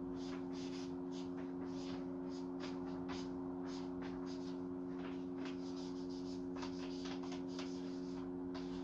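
A steady low electrical hum with many short, irregular scratchy ticks over it, several a second.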